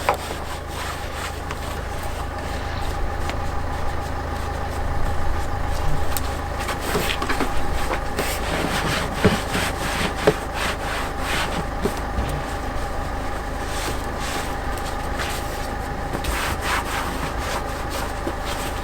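Microfibre cloth wiping and rubbing over engine-bay surfaces, irregular scuffing strokes with scattered light knocks, over a steady low hum.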